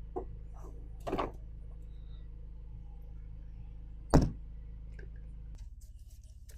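A few knocks, then a loud single thunk about four seconds in, like a door or hatch being shut, over a steady low hum that stops near the end.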